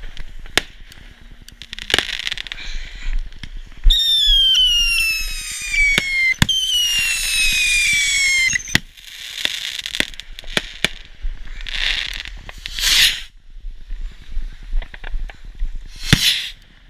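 Consumer fireworks going off at close range: sharp cracks and pops throughout, a loud hiss with several high whistles falling in pitch for about five seconds from about four seconds in, then bursts of crackling.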